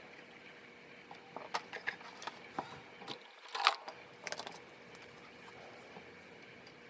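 Light clicks and taps of small parts and tools being handled during disassembly of a compact digital camera, a scattered run of them from about a second and a half in to past four seconds, the loudest near the middle, over a faint steady hum.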